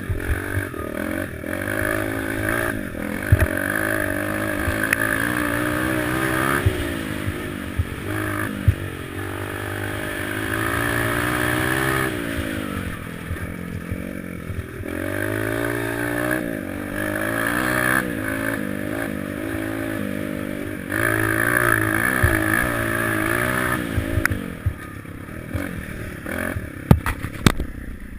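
Small four-stroke pit bike engine being ridden, its pitch climbing and dropping over and over as the rider opens and closes the throttle, with a few sharp knocks in between.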